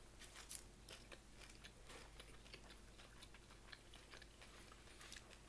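Faint chewing close to the microphone: soft irregular mouth clicks and small crunches of someone eating.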